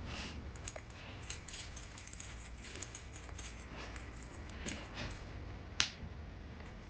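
Scattered light clicks and rustles, with one sharp, louder click nearly six seconds in.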